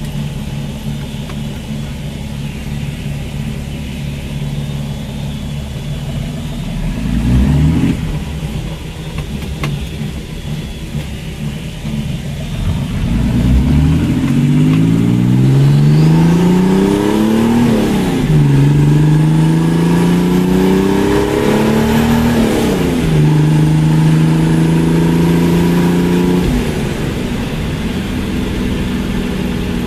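A 1982 Volvo's six-cylinder turbo-diesel engine, heard from inside the car. It runs steadily at low revs with a short rev about a quarter of the way in, then pulls away with rising pitch. The pitch drops at an upshift, climbs again, drops at a second shift, holds steady, and eases off near the end.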